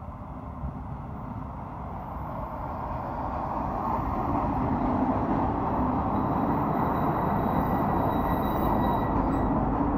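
Kashima Rinkai Railway 6000-series diesel railcar pulling into the station: the engine and wheels on the rails grow louder over the first few seconds as it approaches, then run steadily as it rolls slowly along the platform.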